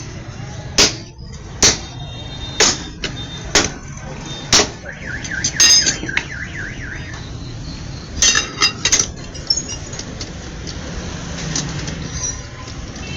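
Five sharp metallic knocks about a second apart. Then a rapidly warbling electronic tone like a car alarm sounds for about two seconds, followed by a quick cluster of three or four more knocks.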